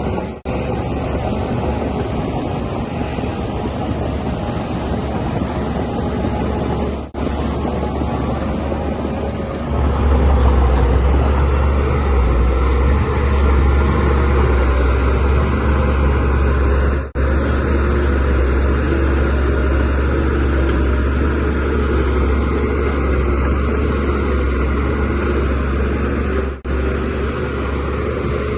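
Shantui DH17C3Pro bulldozer's diesel engine running steadily with a deep drone, growing louder about a third of the way in as it works harder, with a few split-second breaks.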